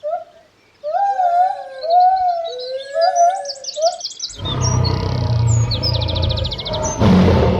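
Bird calls: whistled notes gliding up and down, with quick high chirps above them. About four seconds in, a loud, noisy rumbling sound begins, with a rapid high bird trill over it.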